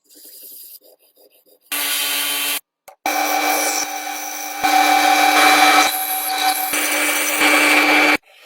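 Abrasive rubbing on wood, like sanding or filing a wooden part of an old coffee grinder, heard in edited stretches that start and stop abruptly.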